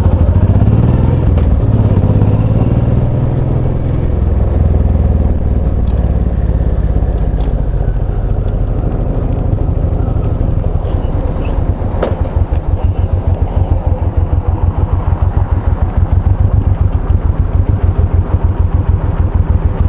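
Honda VTX1800C's V-twin engine running as the bike slows to a stop, then idling with an even, regular pulse from about halfway through, with a single click just before the idle settles.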